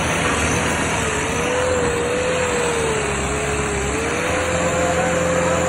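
Tractor engine running steadily, with a whine whose pitch drifts slightly up and down.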